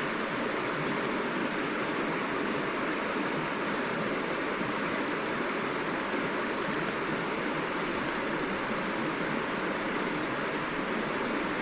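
Stream water rushing and babbling steadily over rocks.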